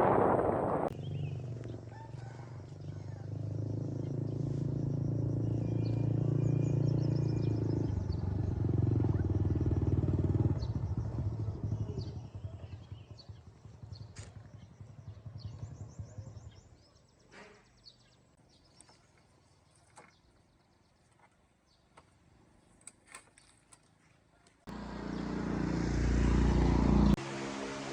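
A motor running steadily for about fifteen seconds. Then near-quiet with scattered clicks and knocks, until a loud hum cuts in suddenly near the end.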